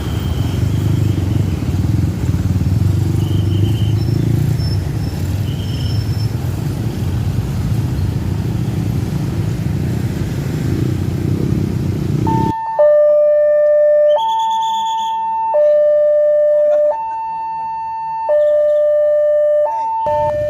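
Road traffic with a vehicle engine rumbling steadily and a few faint short beeps. About two-thirds of the way in, this cuts off suddenly and a clean two-tone hi-lo siren begins, switching between a high and a low note about every one and a half seconds.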